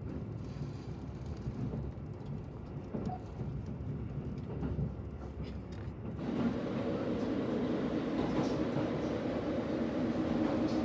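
Limited Express Hida diesel train running, heard from inside the car as a steady rumble of the ride. About six seconds in it becomes louder, with a steady low hum added.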